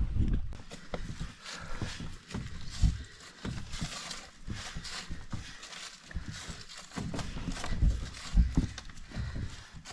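Irregular knocks and thumps, a few louder ones near the end, over a light steady hiss.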